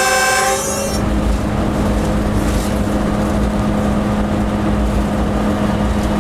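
A train horn ends about a second in. After it comes the steady running noise of the locomotive heard from inside its cab: a constant hum over a low rumble.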